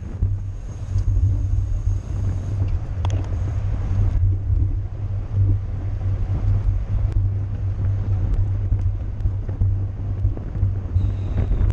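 Wind buffeting the microphone of a camera on a bicycle riding at racing speed: a steady, heavy low rumble with a few faint ticks.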